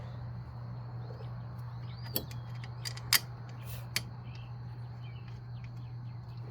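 A few sharp metallic clicks from brake parts and tools being handled during a front brake job, the loudest about three seconds in, over a steady low hum. Faint bird chirps in the background.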